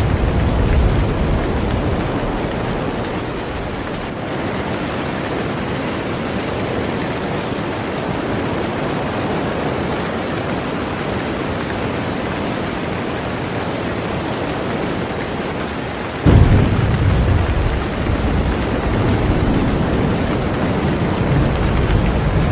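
Heavy rain falling on a boat, a steady dense hiss, with thunder: a low rumble dies away over the first couple of seconds, and a sudden deep rumble breaks in about sixteen seconds in and keeps rolling.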